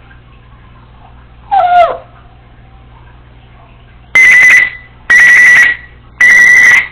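Congo African grey parrot giving a short whistle that falls in pitch, then three loud, evenly spaced electronic-style beeps on one steady high tone, mimicking an alarm such as a smoke detector.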